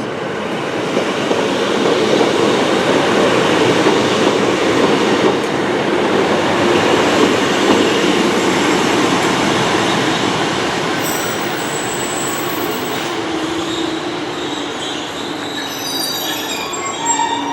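Class 153 diesel multiple unit train pulling into a terminus platform: a steady rumble of engines and wheels that eases off in the second half, with high thin squeals setting in from about eleven seconds as it slows.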